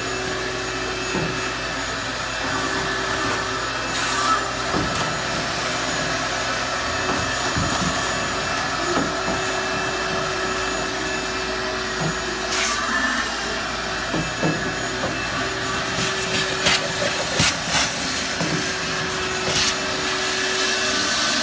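A small motor running steadily for the whole stretch, with a tone that drops in and out and scattered knocks and scrapes, more of them in the second half.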